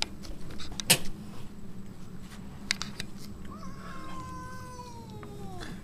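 A domestic cat giving one long yowl, about two seconds, that starts past the middle and slowly falls in pitch: the drawn-out warning call of a cat that does not want to be petted.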